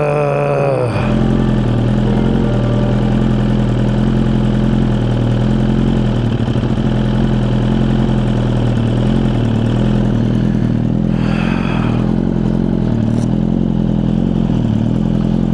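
Suzuki GSX-R1000 superbike's inline-four engine running at a steady, unchanging speed.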